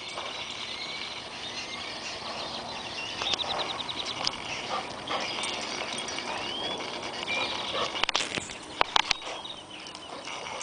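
Birds singing: short rising whistles and rapid trills, with a few sharp clicks or knocks about eight to nine seconds in.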